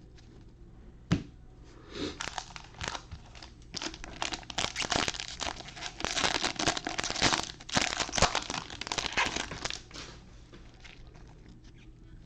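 Plastic wrapper of a trading card pack crinkling and rustling as the pack is opened, loudest in the middle stretch, with a single sharp tap about a second in.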